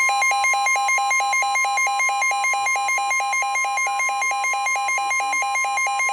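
Weather-radio warning alarm: a steady, loud tone near 1 kHz with a fast two-pitch beeping over it, about five beeps a second. It signals that a severe thunderstorm warning message follows.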